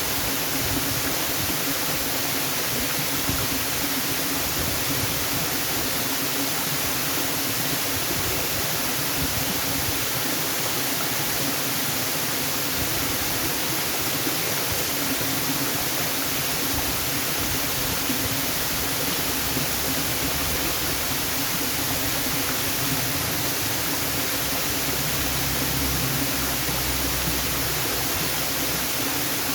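Waterfall: a steady, even rush of falling water, bright and hissy with no separate splashes or changes.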